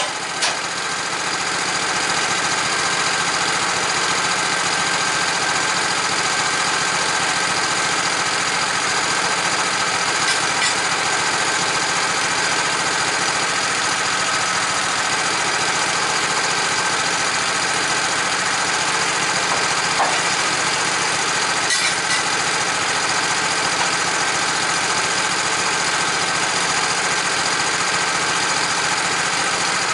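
A motor-driven machine running steadily, with a few faint clicks.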